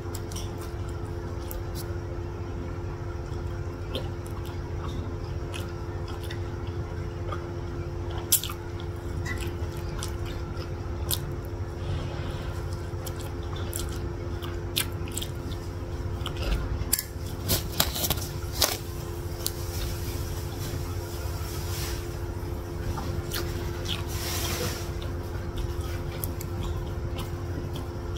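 Close-up chewing and mouth sounds of someone eating satay meat in peanut sauce, with scattered short wet clicks and smacks, a cluster of them about two-thirds of the way through, over a steady low hum.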